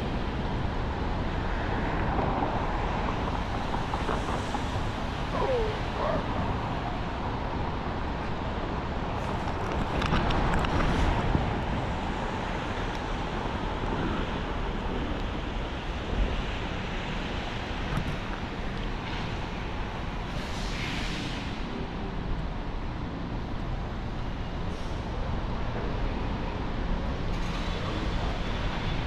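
Rainy city street ambience: a steady wash of traffic noise on wet pavement, with vehicles passing and a louder swell about ten seconds in.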